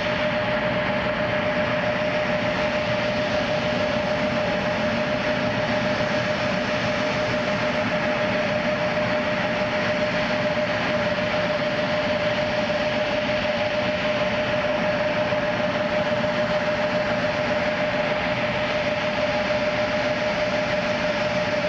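Jet aircraft engine noise at an airport: a steady rush with one constant mid-pitched whine, unchanging throughout.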